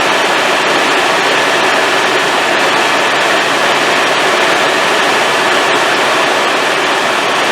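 Helicopter in flight heard on board: loud, steady engine and rotor noise with a thin, steady high whine over it.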